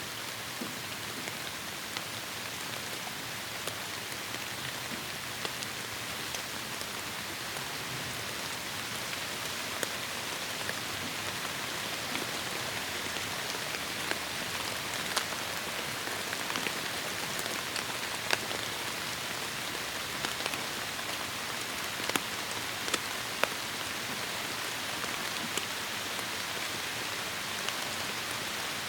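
Heavy rain falling steadily on forest foliage, a continuous hiss with scattered sharper drop hits, a few louder ones in the later part.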